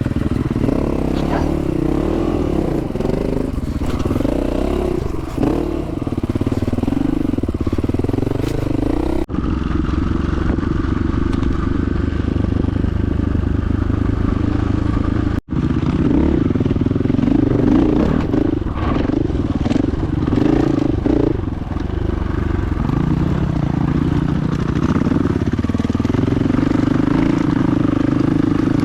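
Dual-sport dirt bike engine running at low speed on a rough trail, its pitch rising and falling with the throttle, with clatter over rocks. The sound cuts out briefly twice, about nine and fifteen seconds in.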